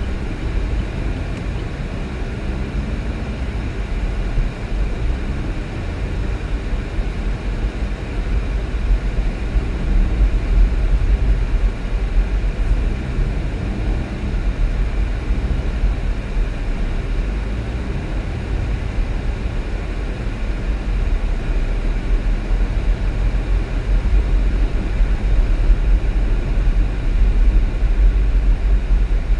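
Steady low rumble of a car being driven: engine and tyre road noise, unbroken throughout.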